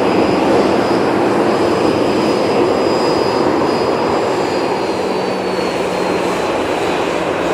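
Jet airliner engines: a loud, steady rush with a thin high whine that slowly falls in pitch through the second half.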